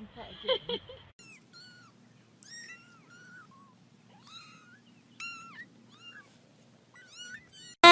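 Cat meowing over and over: a string of short, high-pitched mews, each rising and falling in pitch. In the first second there are a few louder, lower-pitched calls.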